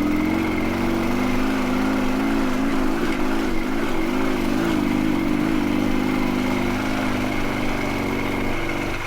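Dnepr MT16 sidecar motorcycle's flat-twin engine running under load on a steep, rough climb, its engine speed wavering up and down in the middle as it labours.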